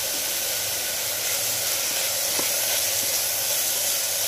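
Chopped onion and tomato frying in an aluminium pressure cooker: a steady sizzling hiss, with a faint tap about two and a half seconds in.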